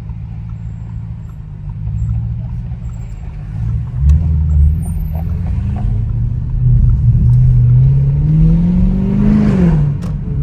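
Straight-piped Audi S7 exhaust rumbling at low revs, getting louder about four seconds in as the car pulls away. The engine note then rises steadily under acceleration and falls sharply near the end as the revs drop, with a single sharp pop from the exhaust at that moment.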